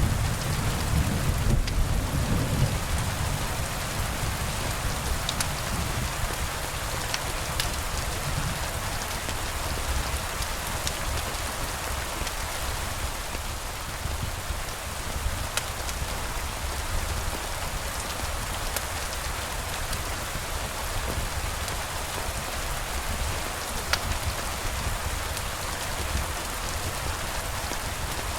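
Steady rain falling, with a low rumble of thunder dying away over the first few seconds and a few scattered sharp clicks.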